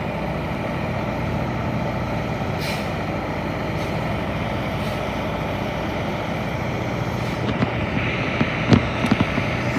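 Heavy diesel engines of a recycling truck and a loader running steadily. There is a brief hiss about three seconds in, and a few knocks and a squeak near the end.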